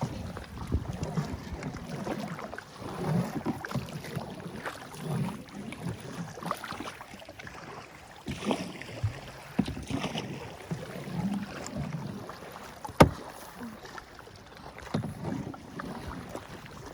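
Canoe paddling: paddle strokes swishing and splashing in the water every couple of seconds, with one sharp knock about 13 seconds in.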